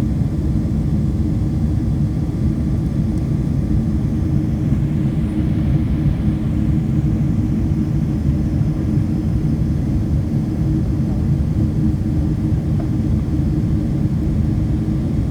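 Aeroplane cabin noise in flight: a steady low drone of engines and rushing air.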